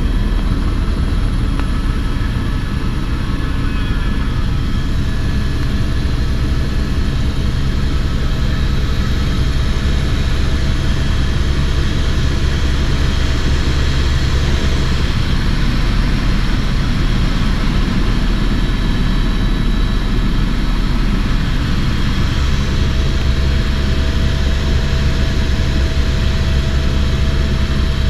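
Helicopter in flight, heard from inside the cabin: a loud, steady drone from the rotor and turbine engine, with a few steady whining tones over the low rumble.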